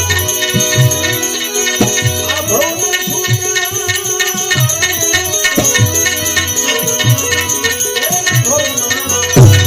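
Instrumental interlude of a Gujarati devotional bhajan: a held drone under jingling percussion and regular low hand-drum strokes.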